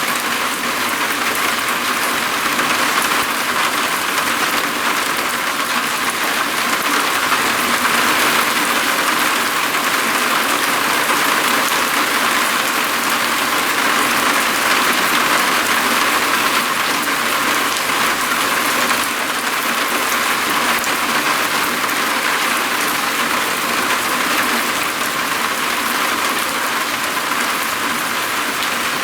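Steady rain falling on a roof: a constant, even hiss of many drops that does not let up.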